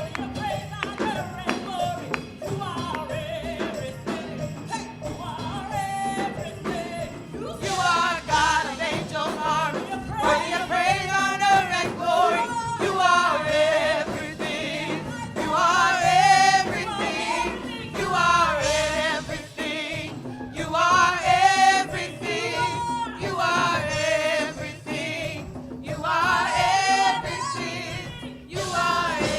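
Gospel worship music: singing with strong vibrato in long sung phrases over instrumental backing. The singing grows louder about a quarter of the way in.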